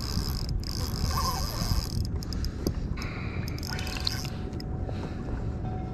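Water sloshing against a kayak hull, under a steady low rumble, with a few faint clicks.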